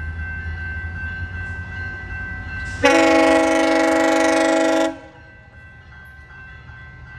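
GO Transit cab car 367's horn sounding one loud blast of about two seconds, a chord of several notes, over the low rumble of the passing push-pull commuter train.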